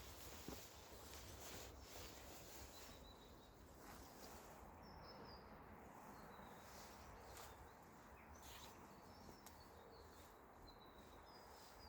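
Near silence: faint background hush with a few brief, high bird chirps scattered through.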